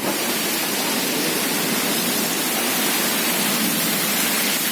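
Heavy rain and strong storm wind, a steady, even rushing noise with no let-up.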